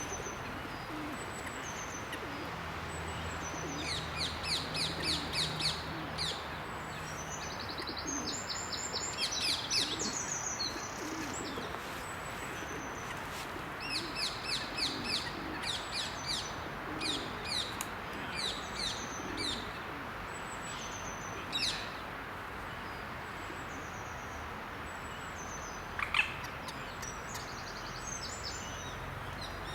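Songbirds singing and calling, with several bouts of quickly repeated high chirps, over a steady background hiss.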